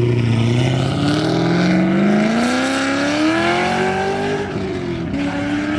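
A car engine pulling hard under acceleration. Its pitch climbs steadily for about three seconds, then drops with an upshift and pulls again near the end.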